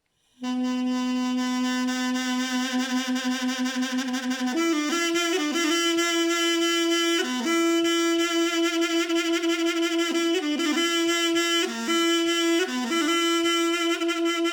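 Mey, the Turkish double-reed folk pipe, played solo: a long held low note for about four seconds, then a higher melody with quick ornamented turns and short breaths between phrases.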